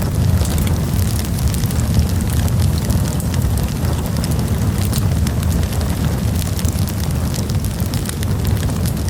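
Campfire burning, with a steady low rumble and frequent small, sharp crackles and pops from the burning wood.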